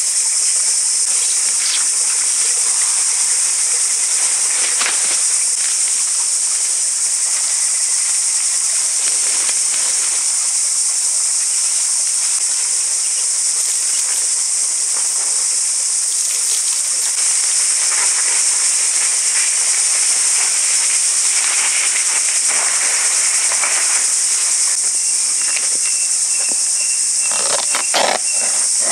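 Insects droning: a loud, steady, high-pitched chorus that never lets up. A few clicks and rustles come near the end.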